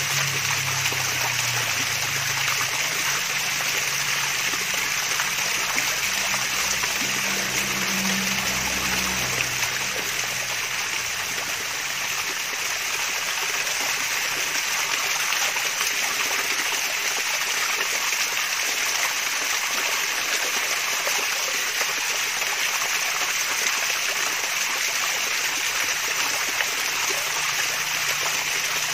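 Water from a small waterfall splashing and trickling steadily, an even rushing with no breaks. A faint low hum underneath fades out about ten seconds in.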